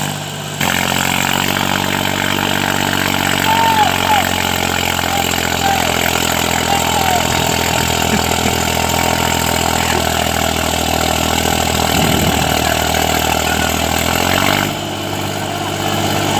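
Mahindra mini tractor engine running steadily. It picks up speed about half a second in and eases back down near the end.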